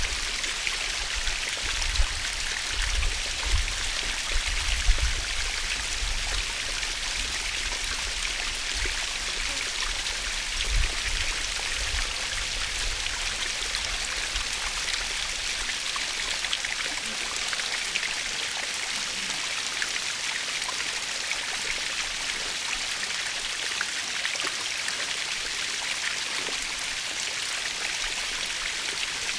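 Waterfall splashing steadily, an even hiss of falling water with a few short low bumps in the first few seconds and again about eleven seconds in.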